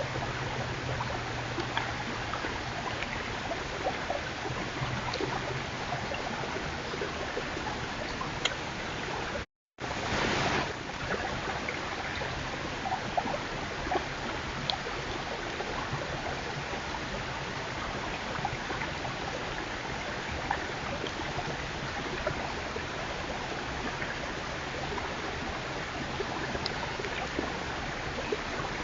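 Steady rushing hiss from a trail camera's microphone, with faint scattered ticks. About nine and a half seconds in the sound cuts out completely for a moment where one clip joins the next, then returns slightly louder for under a second.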